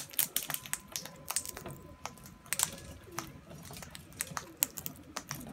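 Birds pecking at seed, a fast, irregular run of sharp clicks of beaks on seed and the feeding surface.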